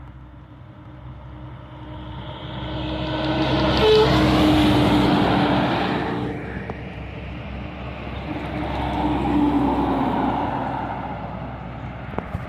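Heavy trucks passing by with engine hum and tyre noise. The sound swells to a peak about four seconds in, drops off suddenly at about six seconds, then a second, smaller pass swells up around nine to ten seconds.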